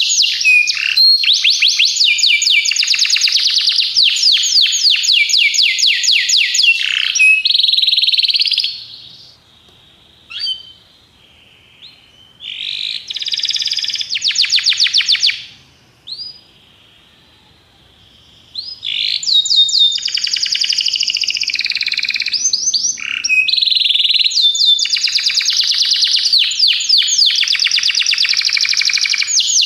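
Canary singing: long runs of fast, rapidly repeated trill notes and rolling phrases, broken by two short pauses about a third of the way and just past half way through, with a few single chirps in the first pause.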